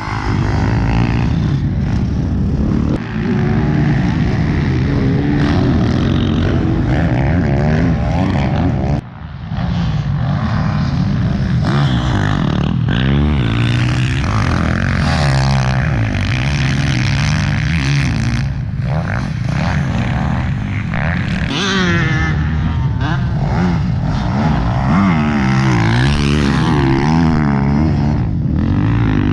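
Motocross bike engine running hard, its pitch rising and falling over and over as it revs up and shifts, with a brief drop in level about nine seconds in.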